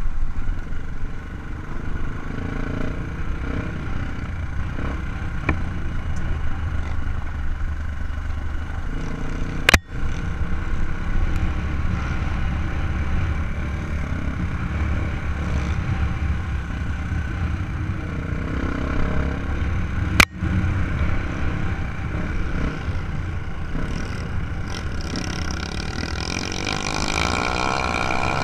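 Trail motorcycle engine running steadily while riding, with two sharp knocks about ten seconds apart.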